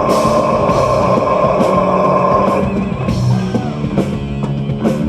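Live heavy metal band playing: a long held note over the band in the first half, ending about halfway through, then sparser drum and guitar hits.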